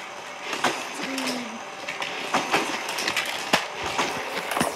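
Toy karts running on a plastic Hot Wheels Mario Kart track: a steady rattling whir dotted with irregular plastic clicks and knocks.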